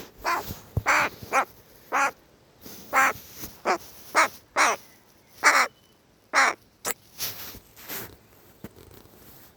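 Young crow chattering, with more than a dozen short, harsh caws and calls at irregular intervals and a couple of sharp clicks among them.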